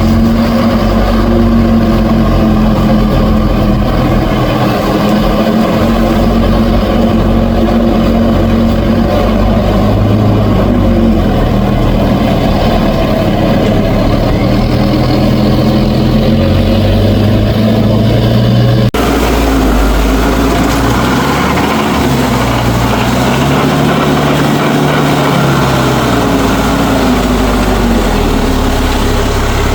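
Mahindra tractor's diesel engine running hard under load, its pitch rising and falling. About two-thirds of the way through the sound changes abruptly to a lower, wavering engine note.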